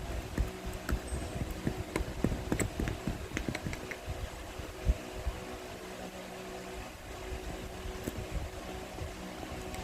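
Scattered small clicks, taps and knocks of a spoon and slime being handled, busiest in the first half, over a steady low hum.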